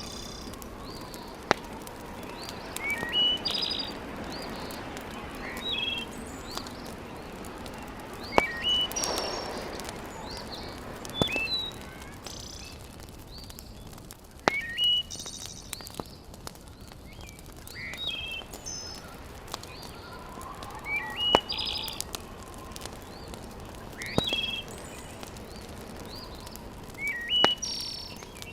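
Wood fire crackling in a fireplace, with sharp pops every few seconds over a low steady hiss, while birds repeat short chirping calls again and again.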